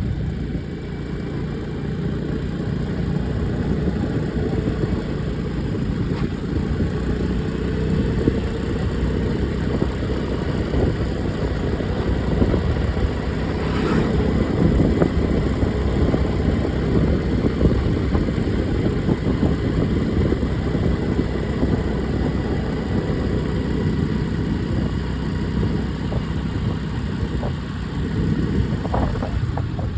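A vehicle engine running steadily, with a dense low rumble throughout.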